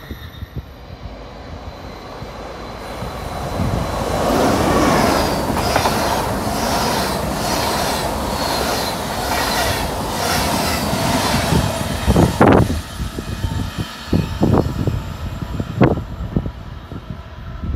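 A train running along the track: a rumble that builds from about four seconds in, with a rhythmic clatter of wheels over rail joints. Later come several sharp clacks and squeaks from the wheels.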